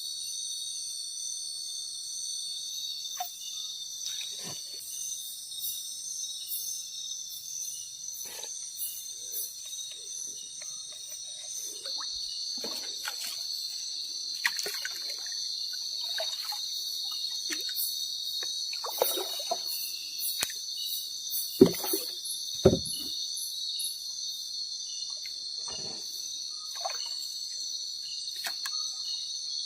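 Night forest insect chorus, a steady high-pitched ringing drone of crickets, with irregular rustles and knocks over it and two sharper knocks a little past the middle.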